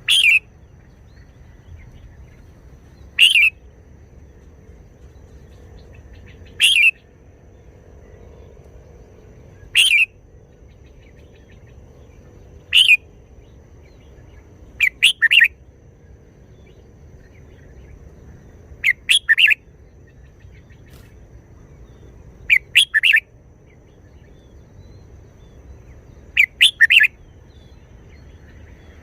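Red-whiskered bulbul singing short, loud, clear phrases, one about every three seconds at first and then in quick groups of two or three.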